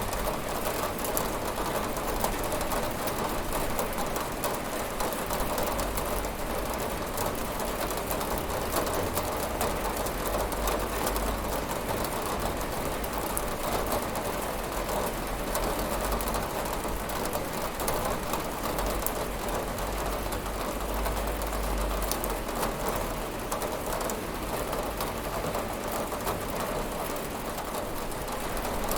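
Steady heavy rain hitting a window and the surfaces around it, a dense patter of drops with a soft low rumble under it for part of the time.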